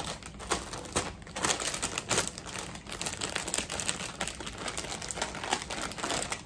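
Foil potato chip bag of Ruffles crinkling as it is handled, with irregular crackles.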